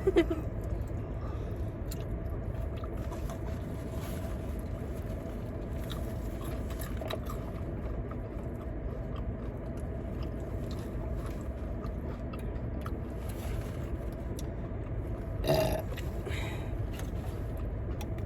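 People chewing and biting into fried chicken, with faint crunches and clicks over a steady low rumble. There is one short, louder noise near the end.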